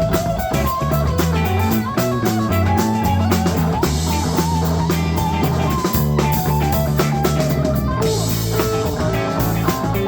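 Live rock band playing an instrumental break with no singing: guitar carrying the melody over bass and drum kit.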